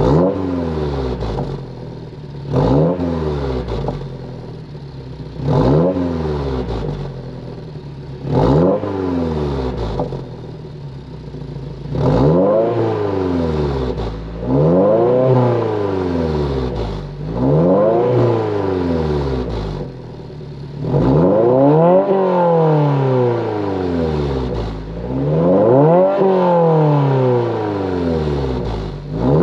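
2022 Subaru WRX's turbocharged 2.4-litre flat-four revving through an AWE Touring catback exhaust: four quick, sharp throttle blips, then a series of longer revs that climb and fall back, one after another.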